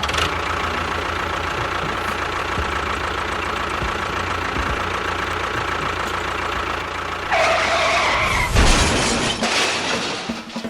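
Engine or motor of a small machine running steadily with an even throbbing pulse. About three quarters of the way through, a louder pitched noise joins it, followed by a heavy thump.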